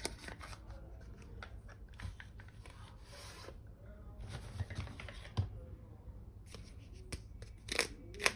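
Miniature toy kitchen pieces and their packaging being handled: scattered light clicks and taps, with soft rustling of packaging through the middle and a quick run of clicks near the end.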